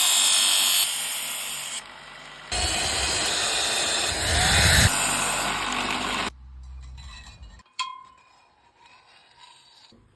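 A power tool runs loudly in two spells, breaking off for under a second about two seconds in. It cuts off a little past six seconds. Near the end a sharp click rings briefly.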